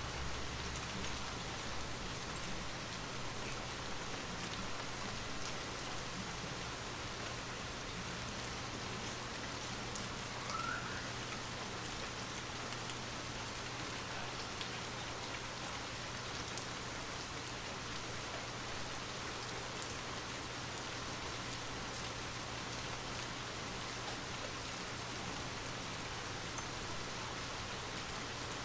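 Steady rain falling: an even hiss with scattered faint drop ticks. A faint short rising chirp comes about ten seconds in.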